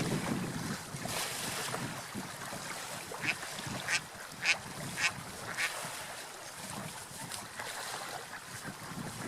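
Ducks quacking: about five short calls roughly half a second to a second apart in the middle, over a steady outdoor hiss.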